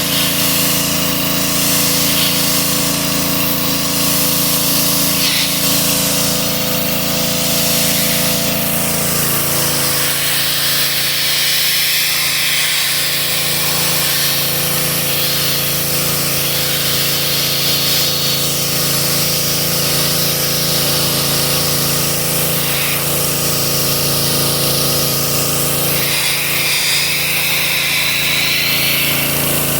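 A motor-driven machine running continuously with a steady hum and a hiss over it, its pitch dropping slightly about nine seconds in.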